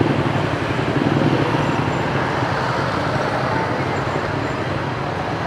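Street traffic with motorbike and car engines running past in a steady rumble.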